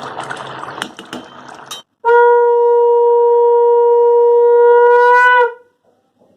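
A single long, loud horn-like blast, steady in pitch for about three and a half seconds, that bends up slightly as it stops. Before it comes a couple of seconds of bubbling, pouring noise, which cuts off abruptly.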